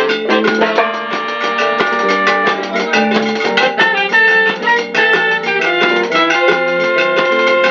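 A band playing an instrumental passage with no singing: a plucked guitar melody over a steady Latin dance beat.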